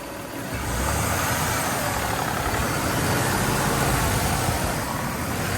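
2018 Ford F-150 pickup truck engine running steadily at idle, growing louder about half a second in.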